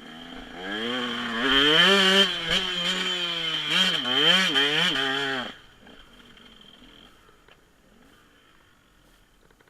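Dirt bike engine revving, its pitch rising and falling with several throttle blips, cutting off suddenly about five and a half seconds in.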